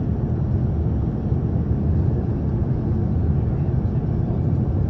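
Steady low rumble of an Airbus A350-1000 airliner heard from inside the cabin: engine and airflow noise with no change in level.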